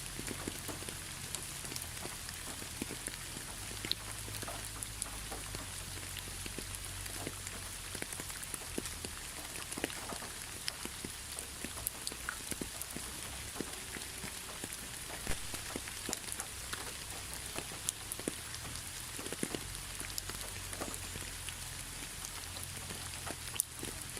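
Steady rainfall with many individual drops ticking irregularly on a surface over an even hiss, and a faint low rumble underneath.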